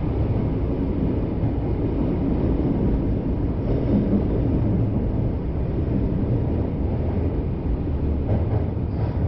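Kyoto Municipal Subway Karasuma Line train running, a steady low rumble heard from inside the passenger car.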